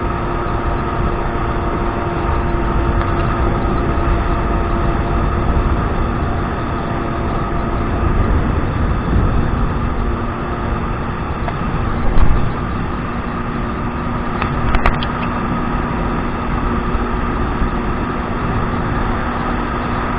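Kawasaki 1200 jet ski engine running under way, with a steady rushing noise; its engine note steps down a little about nine seconds in. A couple of brief sharp knocks come in the second half.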